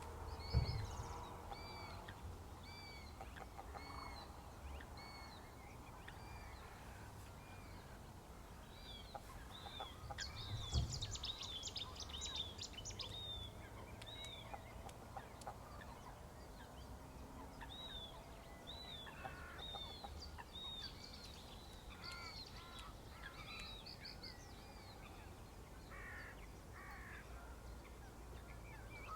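Small birds singing: a run of short, repeated chirping notes, with a quick rapid chatter about ten seconds in, over a faint low rumble.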